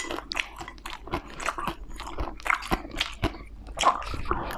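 Close-miked chewing of crispy dumplings: irregular crunches and wet mouth sounds, several a second.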